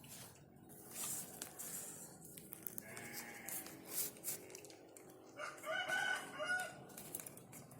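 A rooster crowing once, a long call from about five seconds in, with a fainter call near three seconds, over a scatter of sharp clicks and short high chirps.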